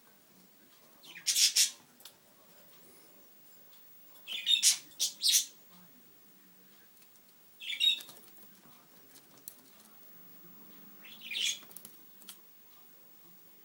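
Budgerigar flapping its wings while bathing, in four short bursts of flutter a few seconds apart.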